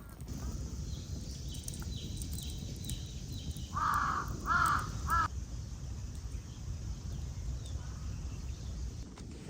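A crow cawing three times in quick succession about four seconds in, over a steady low background rumble, with faint high repeated chirps of a small bird just before.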